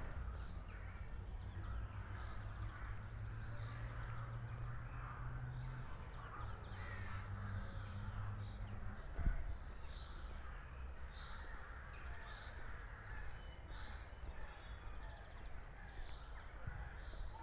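Birds calling, with short calls repeating about once a second in the second half. Beneath them a low steady hum stops about halfway, followed by a single sharp tap.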